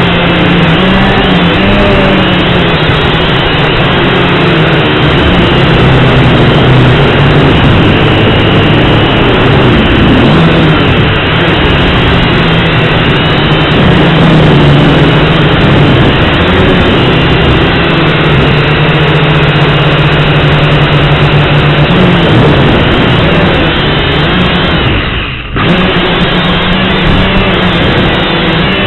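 Syma X5C quadcopter's four small motors and propellers whining loudly, the pitch wavering up and down as the throttle changes, with rushing wind noise over it. The sound drops out briefly about three seconds before the end.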